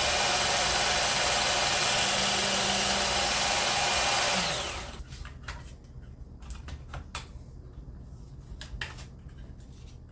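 Work Sharp Ken Onion Elite electric belt sharpener running steadily. It is switched off about four and a half seconds in and spins down with a falling hum, followed by a few light clicks.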